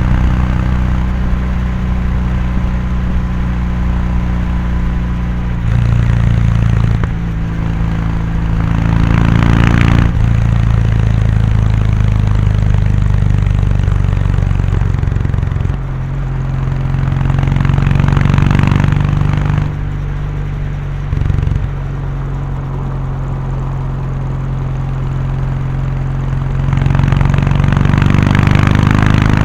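Kawasaki Meguro K3's air-cooled parallel-twin exhaust running at road speed. The engine note climbs and then drops back sharply about ten seconds in and again about twenty seconds in, then climbs again near the end.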